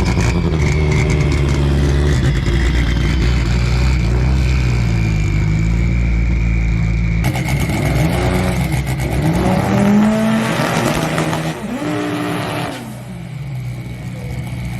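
Honda drag cars' engines running with a steady note, then revving up and down in rising and falling sweeps, falling away near the end.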